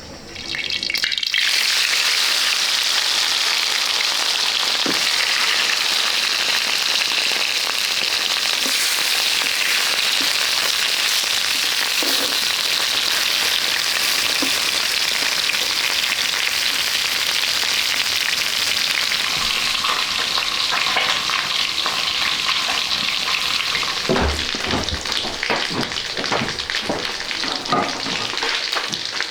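Food frying in hot oil in a pan, a steady loud sizzle that starts abruptly about a second in. A few knocks and scrapes join it near the end.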